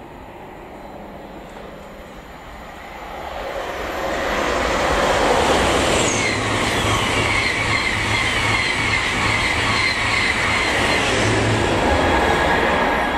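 ICE high-speed train passing through the station: a rushing rail noise that builds over the first few seconds and then holds loud, with a run of short, repeated high wheel tones on top.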